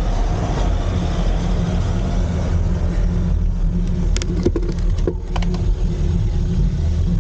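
Steady wind buffeting and road rumble on a bicycle-mounted camera while riding uphill, with a few sharp clicks about four to five and a half seconds in.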